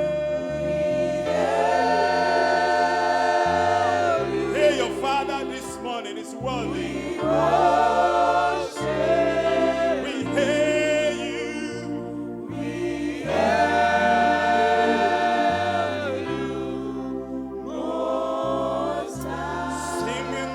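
Church choir singing a gospel worship song in long held phrases over an instrumental backing with a stepping bass line.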